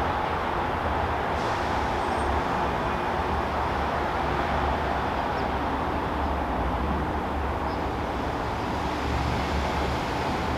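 Steady backyard background noise: a constant low rumble under an even hiss. A faint short high chirp comes about two seconds in.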